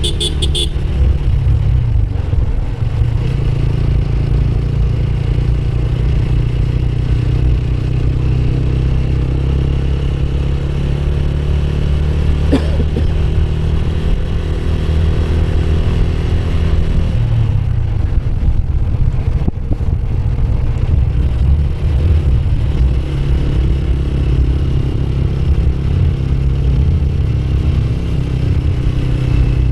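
Motorcycle engine running steadily while riding. Its pitch dips and climbs back twice, about two seconds in and again past the middle.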